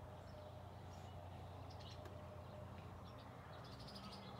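Faint background ambience: a steady low hum with a few faint, short bird chirps, about two seconds in and again near the end.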